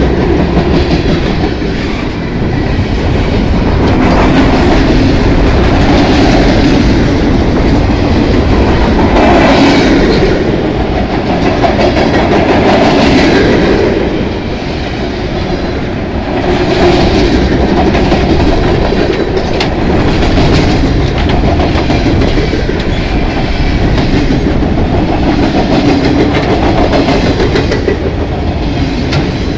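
Loaded freight flatcars rolling past close by: steel wheels rumbling on the rails and clicking over the rail joints, with a brief lull in loudness about halfway through.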